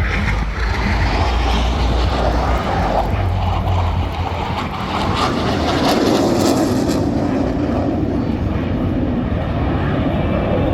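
Jet noise from KAI T-50B aircraft flying past, loud and continuous from their turbofan engines.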